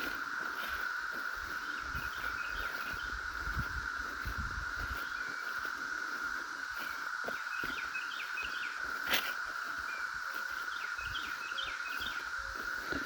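Chorus of cicadas holding one steady, high drone, loud throughout. A bird's short chirping calls break in over it a few times, and there is a single sharp click about nine seconds in.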